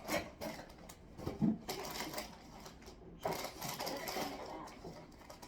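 Rapid clicking and rustling of things being handled, in irregular bursts.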